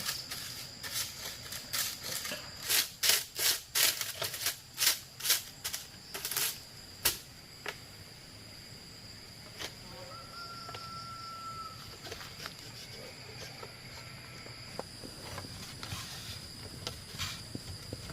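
A run of sharp knocks, irregular and closely spaced over the first seven seconds, then only a few scattered ones, with a faint steady high hum underneath throughout.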